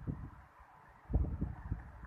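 Wind buffeting the microphone in irregular low rumbling gusts, the strongest about a second in.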